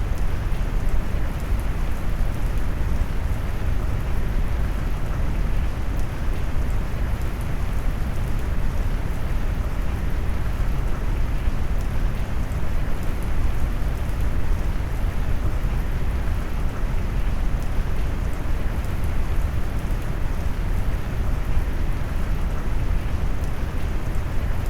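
Steady rain mixed with deep brown noise, the sound heavy in the low end with a fine patter of raindrops above, unchanging throughout.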